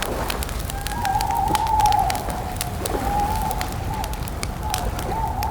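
Campfire crackling with frequent sharp pops over a low rumble, while a wavering, whistle-like tone runs alongside, dipping and swelling.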